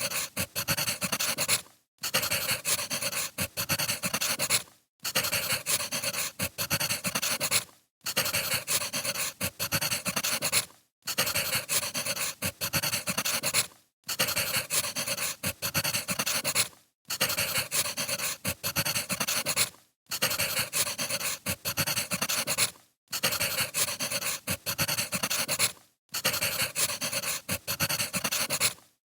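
Wood fire crackling: a short looped recording that cuts out briefly about every three seconds.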